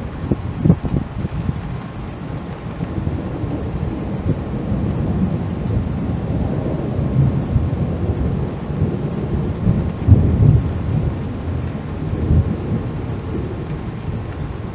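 Thunder rumbling continuously in a thunderstorm, the low rumble swelling and fading, with a loud peak about a second in and the loudest roll about ten seconds in.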